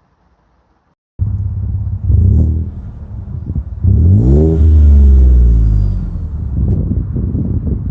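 Ford F-150 2.7-litre twin-turbo EcoBoost V6 running through a MagnaFlow straight-through muffler, with a deep exhaust tone. The engine comes in suddenly about a second in, blips briefly, then rises in pitch about four seconds in and falls back.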